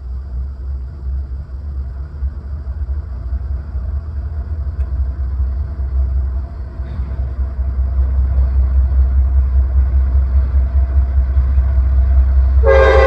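Approaching diesel freight locomotives rumbling low and growing steadily louder. Near the end, the lead GE CM44AC's five-chime Nathan K5LA air horn starts suddenly, loud, as a full chord.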